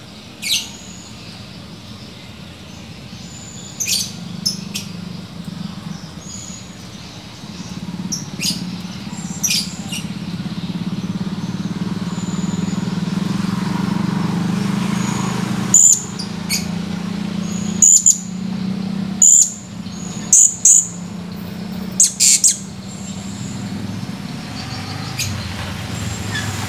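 Blue-crowned hanging parrot (serindit) giving short, sharp, high chirps, a few scattered at first and then a run of louder ones in the second half, over a steady low hum.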